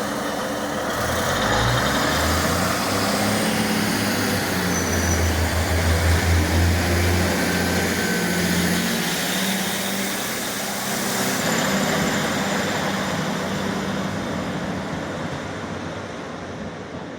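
Diesel multiple-unit train pulling out of the station. Its engine note builds over the first few seconds, is loudest midway, then fades as the train draws away.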